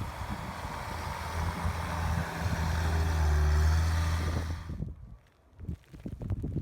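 An engine running with a steady low hum and hiss that grows louder, then cuts off abruptly about five seconds in, leaving a few faint knocks.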